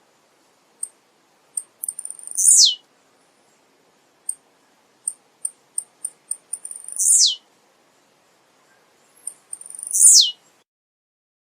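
Male blue-black grassquit (tiziu) singing: three times, a run of short high ticks leads into a quick note that slides steeply down in pitch.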